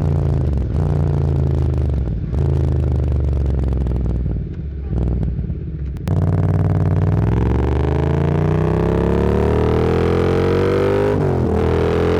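Motorcycle engine heard from the rider's seat. It eases off into a quieter stretch, then opens up about six seconds in, revving steadily higher. A quick upshift comes near the end and it pulls on.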